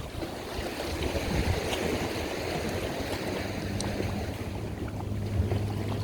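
Boat engine running with a steady low drone that grows stronger from about halfway through, over wind noise and the rush of water.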